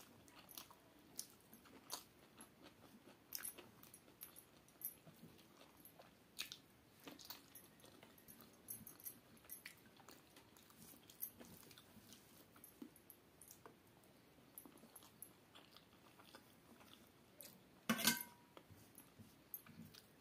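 Faint, close-up eating by hand: chewing and mouth smacks on a mouthful of rice and fried vegetables, with light clicks of fingers on a steel plate. A louder, briefly ringing clink near the end.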